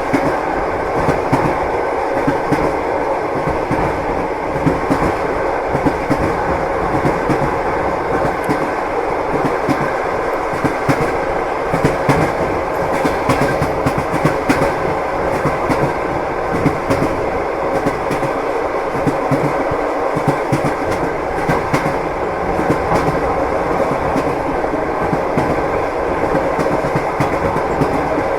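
Steady running noise of a train carriage on the move, with the rumble of the wheels on the rails and scattered clicks and knocks of the wheels over rail joints, and a faint steady tone under it.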